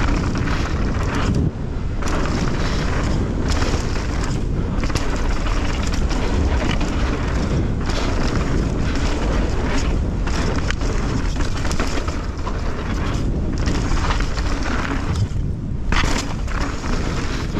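Mountain bike riding fast down a dirt and rock trail: wind rumbling on the microphone under tyres rolling over the ground, with frequent short knocks and rattles from the bike over bumps.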